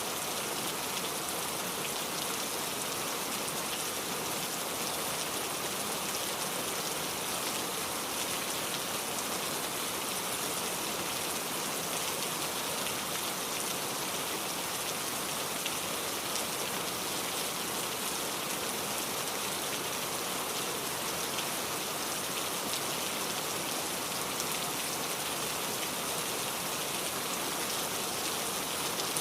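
Steady rain falling, a dense even hiss with fine pattering of drops.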